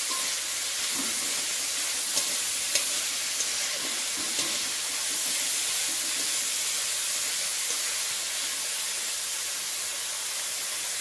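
Cut yard-long beans sizzling in hot oil in an aluminium kadai, a steady frying hiss, while a metal spatula stirs them and gives a few light scrapes and taps against the pan. They are being fried only lightly, just to take off the raw smell.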